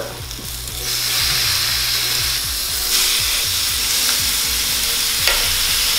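Marinated chicken pieces sizzling as they sear on a hot cast iron grill pan while they are turned over with tongs. The sizzle swells about a second in and then holds steady.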